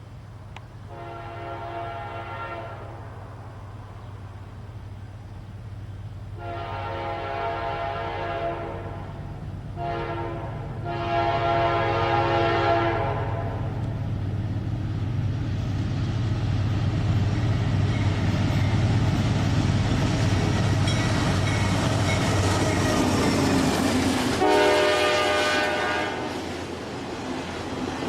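Train horn sounding the long, long, short, long grade-crossing signal as the train approaches, then the train passing close by with a deep diesel engine rumble and steady rolling wheel noise. One more horn blast comes near the end.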